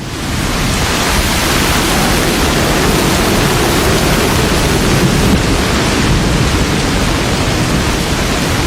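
Steady, loud rushing noise with no distinct events, rising in over the first half second after a brief cut.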